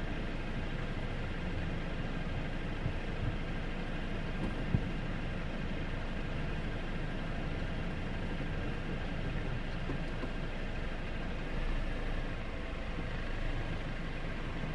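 Jeep Wrangler JL engine idling steadily while the vehicle stands still, with a short sharp click about five seconds in.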